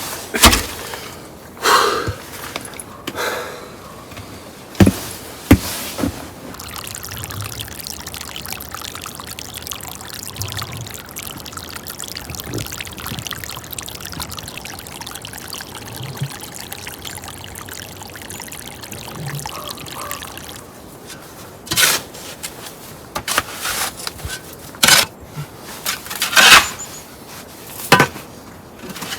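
Water pouring or trickling steadily for about fifteen seconds, with sharp knocks and clatter before and after it.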